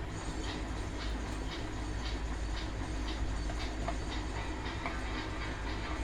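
Steady low mechanical hum with irregular light clicks and rattles, several a second.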